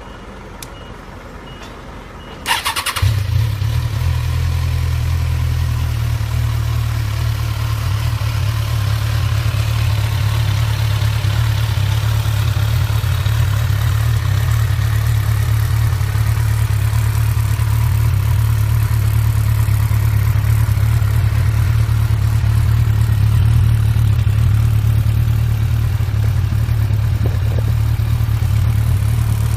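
Kawasaki Ninja 1000 inline-four engine started on the electric starter about two and a half seconds in, catching almost at once, then idling steadily through a Nojima DLC titanium aftermarket exhaust.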